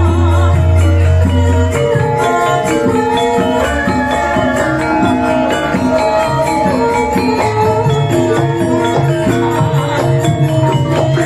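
Javanese gamelan music, amplified through a PA system: layered pitched metallic melody lines over regular percussion strikes, with a deep low tone sounding for the first two seconds and again in the last few seconds.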